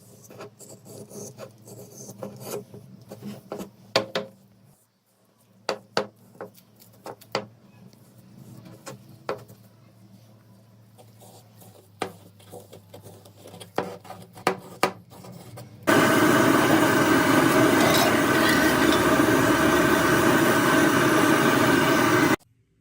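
Scattered light clicks and taps of work on metal parts, then a loud steady motor-driven tool runs for about six seconds and cuts off suddenly.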